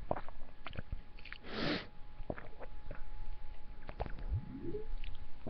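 Close-miked eating sounds of spaghetti and salad: wet mouth clicks and chewing, with a short breathy noise about a second and a half in and a brief rising squeak near the end.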